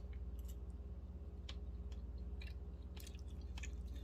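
Close-up chewing of juicy smoked chicken: scattered wet clicks and crunches from the mouth, over a steady low hum.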